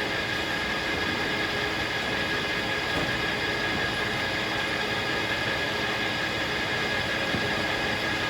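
Circular sawmill running with the blade spinning between cuts: a steady mechanical noise with a steady high whine.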